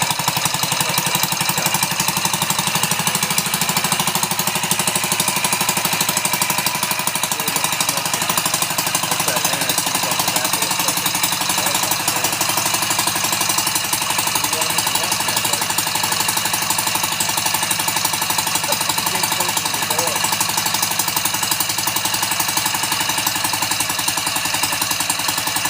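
Homemade beer-can engine running steadily, firing in a fast, even rhythm.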